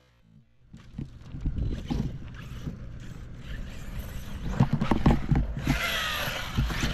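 ARRMA Kraton EXB V2 RC monster truck being driven: wind buffeting the microphone with low irregular thumps, growing louder. About five and a half seconds in, a bright hiss and a short falling high whine come in.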